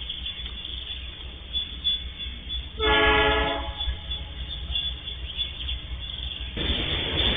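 Freight train's diesel locomotive horn sounds one short blast about three seconds in, over a steady low rumble. Near the end a louder rushing noise rises as the train approaches the crossing.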